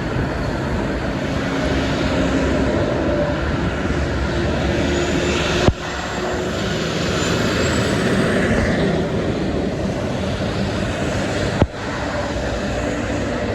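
Steady noise of heavy highway traffic, with trucks passing at speed. There are two abrupt breaks in the sound, about six and twelve seconds in.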